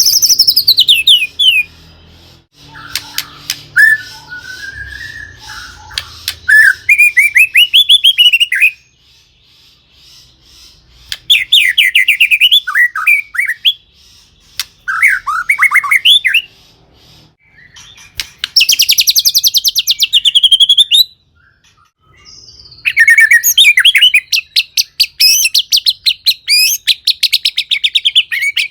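White-rumped shama (murai batu) singing loudly in bursts of varied phrases: sliding whistles and fast rattling trills, with short pauses between bursts.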